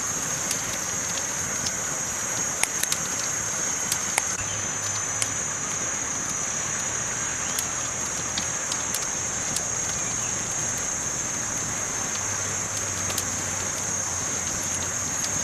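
Campfire burning, with scattered sharp crackles and pops over a steady high hiss.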